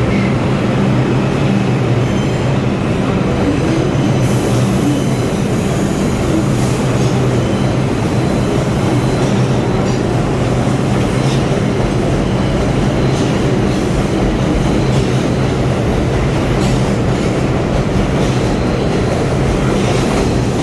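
R142 subway train running along the station track: a steady loud rumble of wheels and motors with a low hum, wheel clicks over the rail joints, and a rise in high hiss from about four seconds in.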